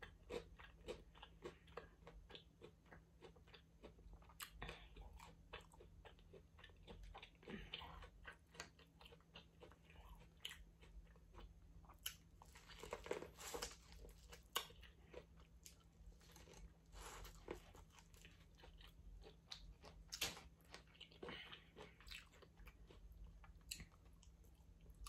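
Quiet, close-miked chewing and mouth sounds of a person eating, with many small irregular clicks and smacks.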